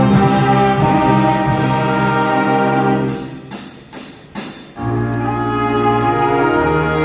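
School wind band playing sustained brass chords. About three seconds in the chords break off for a moment, a few sharp hits sound, and the brass comes back in with held low chords.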